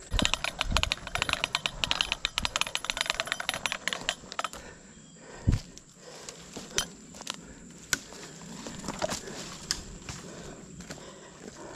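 Dry weeds and twigs crackling and snapping as someone pushes through brush on foot: dense crackling for the first four seconds or so, then scattered snaps, with a dull thump about halfway.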